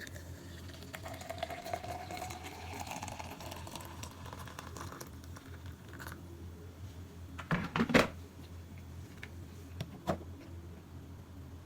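Kitchen handling sounds: a noisy sound with a tone rising slowly over the first few seconds, then a loud knock about eight seconds in and a sharp click about two seconds later, over a faint steady low hum.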